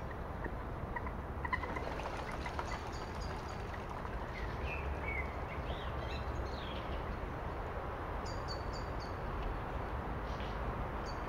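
Birds calling over a steady low rushing background. The calls are short, high notes in quick runs of three or four, heard three times, with a few lower chirps in between.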